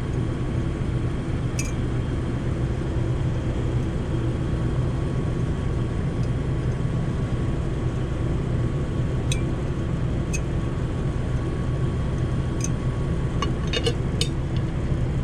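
A few light clinks and taps as a container and its lid are handled and fitted, scattered at first and then a quick run of them near the end, over a steady low mechanical hum.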